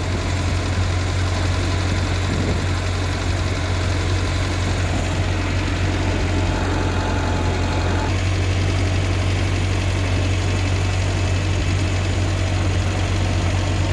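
Ford 8N tractor's four-cylinder flathead engine running steadily as the tractor putts along in high-range third gear.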